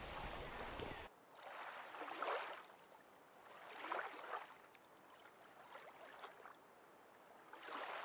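Faint, muffled creek water heard by a camera submerged on the stream bed. The noise swells and fades several times, about two seconds apart.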